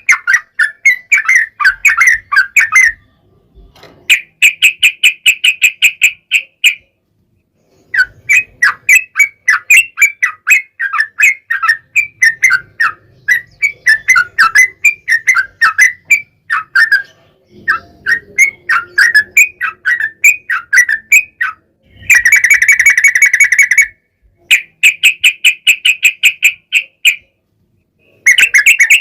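Yellow-vented bulbul (trucukan) song: fast, bubbling chatter in phrases a few seconds long, with short pauses between. Several phrases run into long, even, rapid trills.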